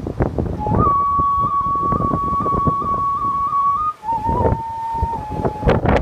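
Umebue (梅笛) festival flute holding a high, pure note with small ornamental flicks, then stepping down to a lower held note about four seconds in. Strong gale wind buffets the microphone throughout, with a loud gust near the end.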